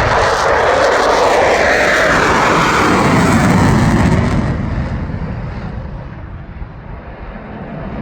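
Royal Thai Air Force F-16A fighter jet passing over with a loud engine roar that drops in pitch as it goes by. It then fades away, and the roar begins to swell again near the end.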